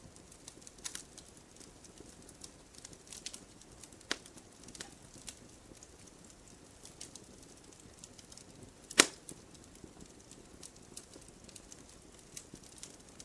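Wood fire crackling, with sharp pops scattered at irregular intervals; one much louder pop about nine seconds in and a smaller distinct one about four seconds in.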